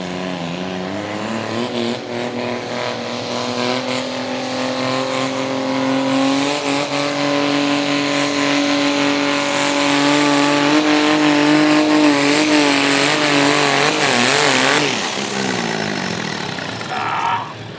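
John Deere diesel garden tractor engine at full throttle pulling the sled. Its pitch climbs over the first several seconds, holds high and wavers, then drops sharply about fifteen seconds in as the throttle is pulled back, ending the pull.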